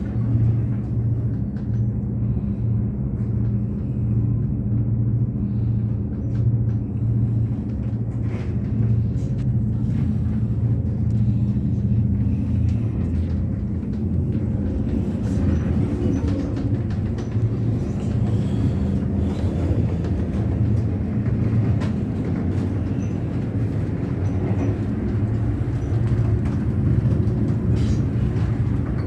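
Moving train's steady low rumble with a droning hum, heard from on board, with a few faint clicks and rattles.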